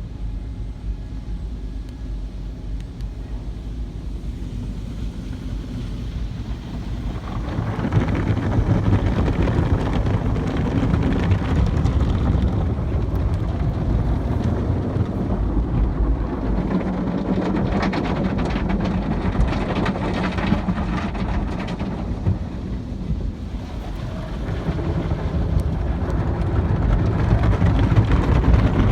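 Automatic car wash equipment running: a steady rushing noise over a low rumble that swells about seven seconds in, eases a little around twenty-two seconds, and grows again near the end.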